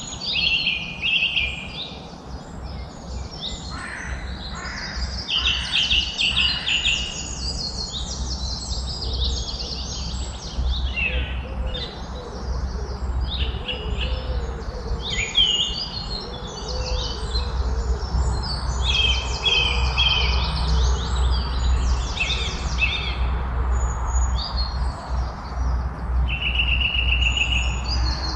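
Several songbirds singing and chirping at once in a dense, continuous chorus of quick twittering phrases and trills, over a steady low rumble.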